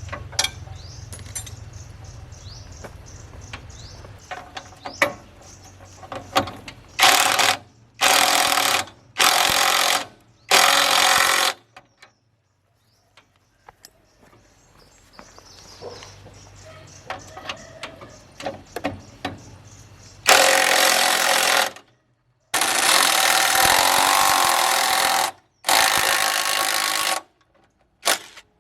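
A power tool run in short bursts, stopping and starting abruptly: four runs of about a second in the middle, then three longer runs near the end, with scattered metallic knocks between them.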